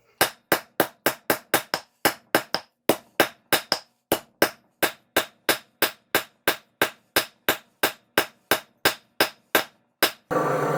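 Hand hammer striking a hot railroad spike on an anvil, about three to four sharp blows a second in short runs, rounding out the spike's square section. Near the end it cuts to a steady rushing noise.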